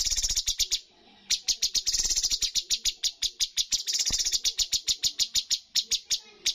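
Cucak cungkok songbird singing a rapid-fire 'tembakan' burst of sharp, high, evenly repeated notes, about ten a second. A short run at the start breaks off briefly, and a longer unbroken run follows.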